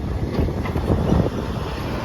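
Recycling garbage truck running, its engine and machinery giving a loud, steady rumble, with wind buffeting the microphone.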